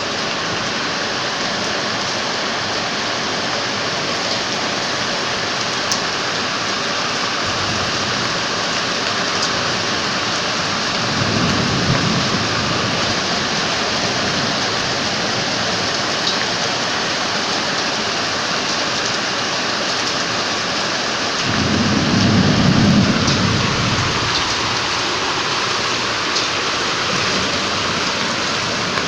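Heavy rain pouring steadily during a thunderstorm, with two low rolls of thunder, one about eleven seconds in and a louder one a little past twenty seconds.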